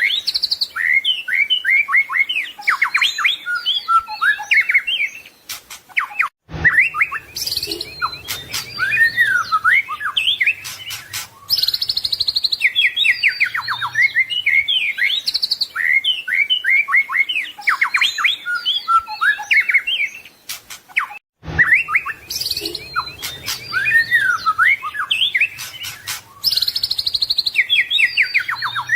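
White-rumped shama (murai batu) singing a long, varied song of rich whistles, quick trills and chirps. The song breaks off briefly twice, about 15 seconds apart, and the same passage repeats after each break.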